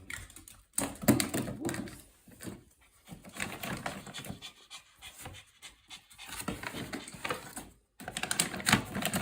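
Pomeranian eating soft, wet dog food from a bowl: quick, irregular wet clicks of chewing and lip-smacking, in bursts with short pauses, loudest about a second in and near the end.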